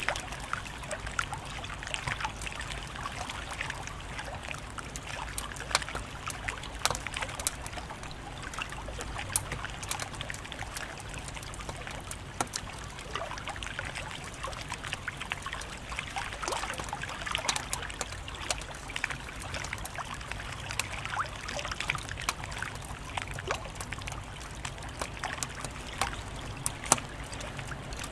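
Wood fire crackling, with a steady hiss full of small pops and a few louder snaps.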